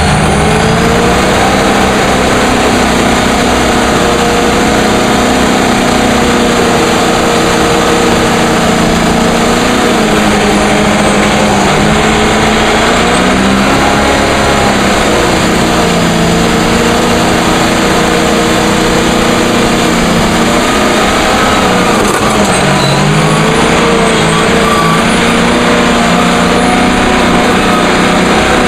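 Diesel engine of a heavy earthmoving machine running loud and steady, its pitch repeatedly dipping and rising again as the load on it changes.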